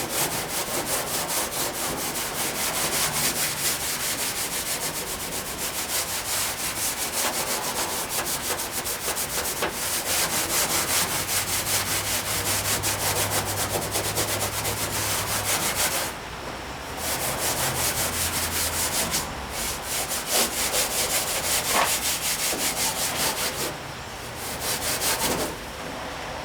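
Steel wool pad scrubbing a solvent-soaked painted steel body panel on a 1959 VW single cab truck, in rapid back-and-forth strokes, to lift grime and bring up the old paint's patina. The scrubbing stops briefly twice, about 16 s in and again near the end.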